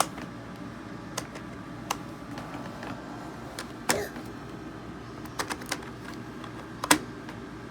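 Irregular light clicks and taps of plastic Play-Doh toy pieces being handled, the two loudest about four and seven seconds in, over a steady low hum.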